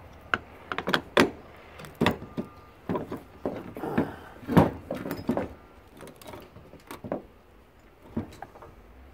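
Irregular knocks and clanks of parts being handled and struck while an electric lawnmower is taken apart, the loudest a little before the middle, then fewer and fainter.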